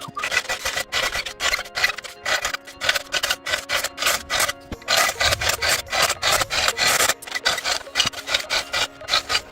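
Hand tool rasping at wood in quick back-and-forth strokes, about three a second, widening the ventilation openings of a log fireplace.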